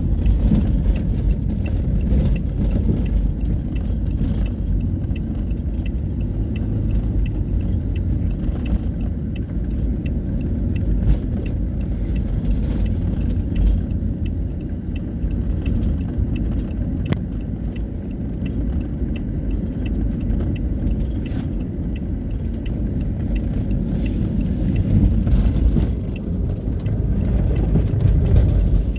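Steady low rumble of heavy trucks and trailers running along a highway, with a faint regular ticking over it.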